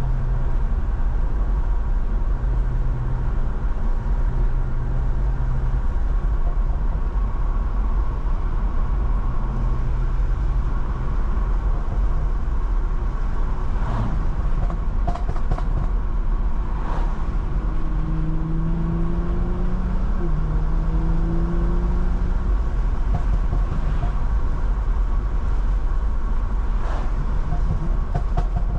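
BMW M340i with a B58 turbocharged inline-six driving on a wet road: a steady deep rumble of road and tyre noise with the engine humming underneath. The engine note rises a little about two-thirds of the way through, and there are a few faint ticks.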